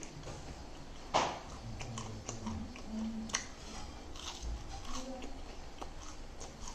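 Close-miked eating: chewing with a string of short mouth clicks. The loudest click comes about a second in, and another sharp one a little past three seconds.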